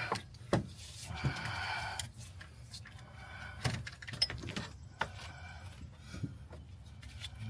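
Scattered light knocks and clicks of tools and metal parts being handled during work on an engine, with a short rasping noise about a second in.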